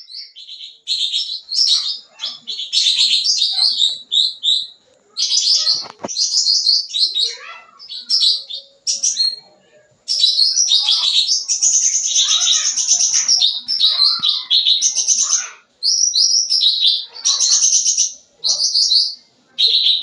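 A cucak ranting songbird singing vigorously, delivering rapid, high-pitched, varied chattering phrases in runs of a second or more, broken by short pauses. This is 'gacor full isian', persistent song packed with varied fill phrases.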